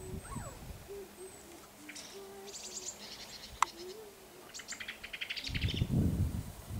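Birds calling outdoors: a run of short, low-pitched notes, with rapid high trills from another bird twice, about two and a half and four and a half seconds in. A single sharp click comes midway, and a low rumble starts in the last second or so.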